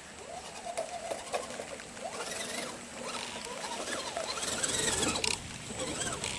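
Redcat Gen7 RC crawler's electric motor and gear drivetrain whining, the pitch rising and falling with the throttle as it crawls, with clicks and crackling from the tyres working over sticks and debris.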